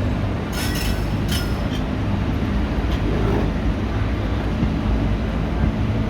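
ICF passenger coach running on the track, a steady low rumble with two brief high-pitched metallic sounds about half a second and a second and a quarter in.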